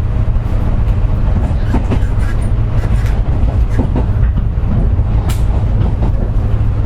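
Running sound inside a JR West 201 series electric train: a steady, loud low rumble from the wheels and track, with scattered clicks and knocks.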